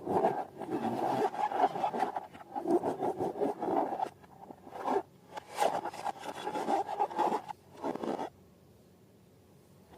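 Irregular rubbing and scraping from slime and balloons being handled and worked by hand, in repeated bursts that stop about eight seconds in.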